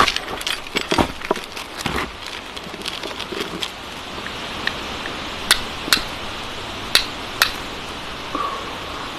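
Steady rain with scattered sharp drip clicks, many in the first couple of seconds, then a few single clicks.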